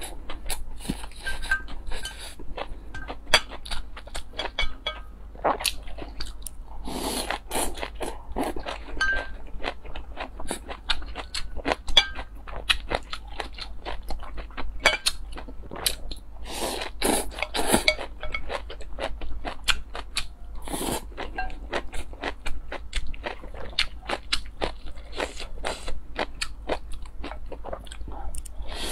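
A person chewing and crunching food close to the microphone, with quick wet chewing clicks throughout and louder bouts of crunching several times.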